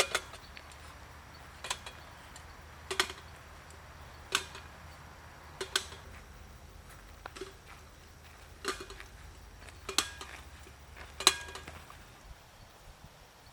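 A series of sharp knocks or taps, about nine in all, one roughly every second and a half, some with a brief ring.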